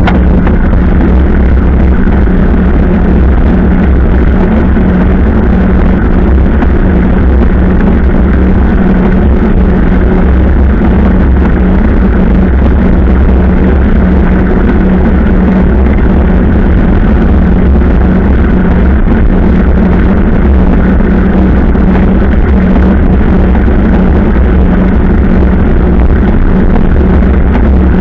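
Motorcycle engine running at a steady cruising speed, a constant loud drone with road and wind rumble and no change in revs.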